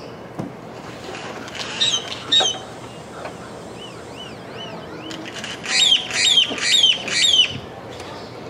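Bird calls: two short high calls falling in pitch, then faint repeated chirps, then four loud high calls falling in pitch about half a second apart.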